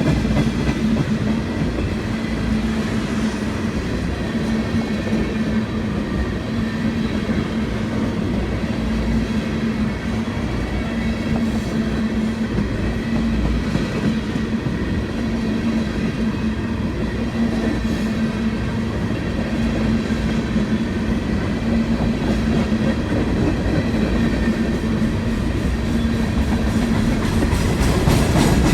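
A freight train's cars rolling steadily past on the rails, with a steady low hum.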